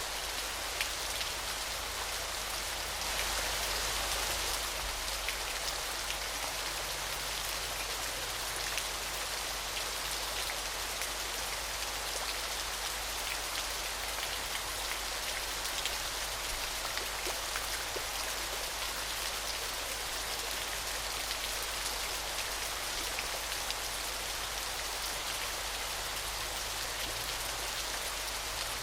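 Waterfall: a steady rush of falling, splashing water with a fine patter of droplets, swelling slightly about three seconds in.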